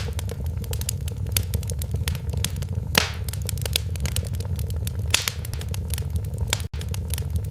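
Wood fire crackling in a fireplace: a steady low rumble of flames with frequent sharp snaps and pops, one louder pop about three seconds in. The sound cuts out for an instant near the end.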